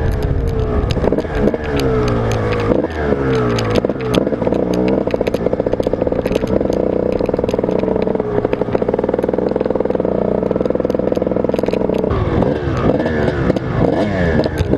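Motocross bike engine under riding load, revving up and down through gear changes, then held at a steady high pitch for several seconds before dropping back and revving up and down again near the end, with sharp clicks over it.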